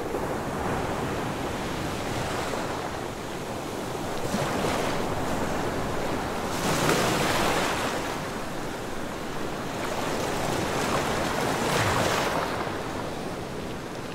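Ocean waves washing in, a steady rush of surf that swells into three louder surges a few seconds apart.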